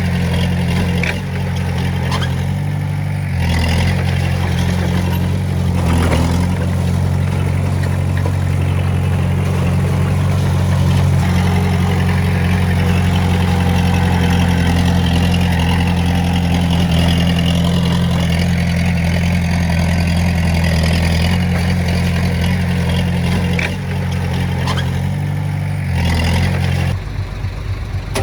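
Diesel engine of heavy earthmoving machinery running steadily, with a few brief metallic knocks. The engine note changes near the end.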